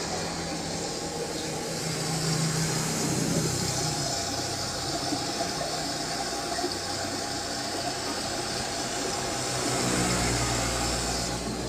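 Road traffic: motor vehicle engines passing over a steady background of traffic noise. One engine hum fades out after a few seconds and another comes up near the end.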